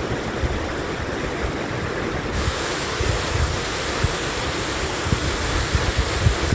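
Valley stream rushing over rocks: a steady hiss of running water, with wind gusting on the microphone.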